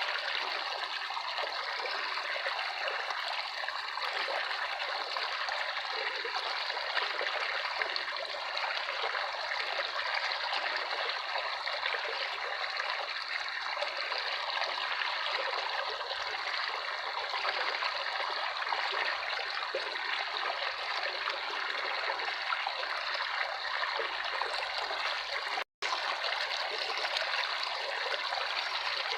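Running water trickling steadily, like a small babbling stream. It drops out for an instant near the end.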